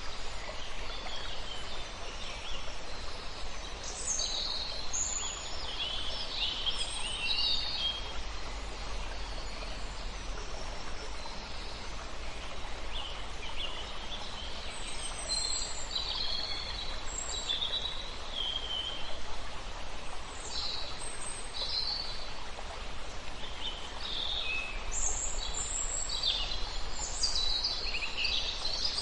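Several songbirds chirping and singing in short bursts over the steady rush of a river. The birds go quieter for a few seconds in the middle, then pick up again.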